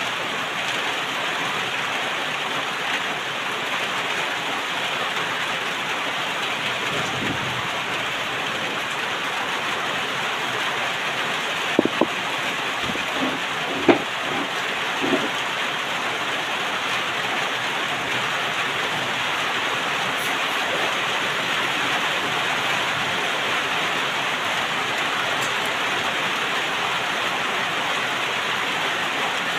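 Steady hiss of rain falling on the roof. A few sharp clinks of tableware come about twelve and fourteen seconds in.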